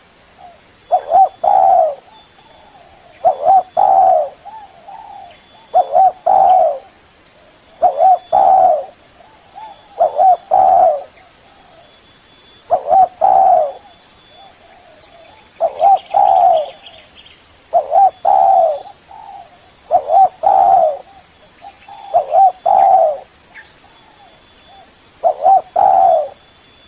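Spotted dove cooing: a short note, then a longer rolling coo, repeated about every two and a half seconds.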